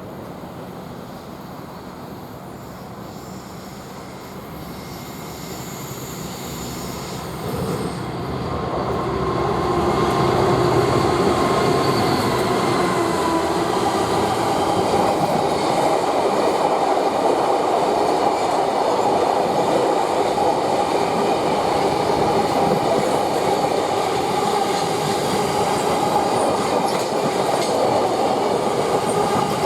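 A Class 59 diesel-electric locomotive, its two-stroke V16 engine running, approaches and grows louder over the first ten seconds. Its train of empty stone wagons then rolls past steadily, with a few held ringing tones over the noise of the wheels.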